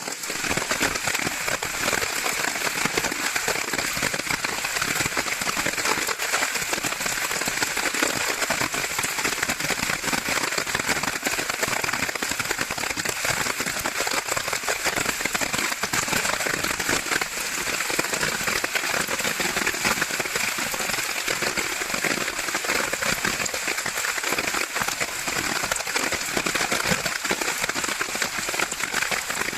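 Heavy rain and gushing water: a steady, dense hiss with a fine crackling patter.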